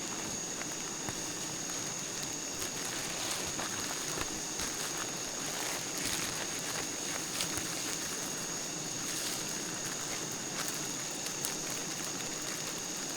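Steady high-pitched insect drone over an even crackling hiss, with a few faint clicks.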